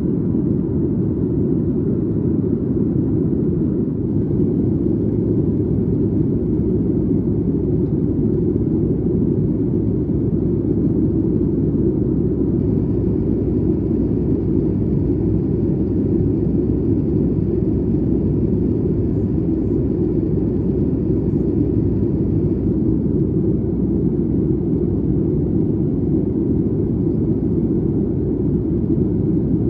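Steady low rumble of a Boeing 737 MAX 8 cabin in flight, heard just behind the wing: even airflow and engine noise from its CFM LEAP-1B turbofans.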